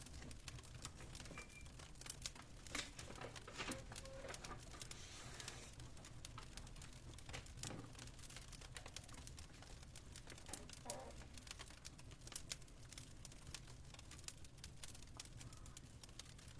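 Fireplace crackling quietly: scattered sharp pops and snaps over a low steady rumble, with a few brief rustles.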